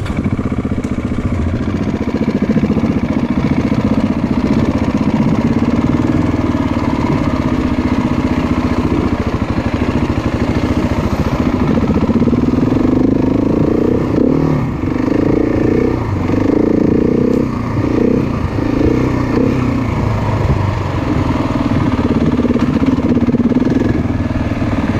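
Off-road motorcycle engine running continuously. In the second half, the throttle is opened and closed several times in quick succession, the pitch rising and falling with each blip.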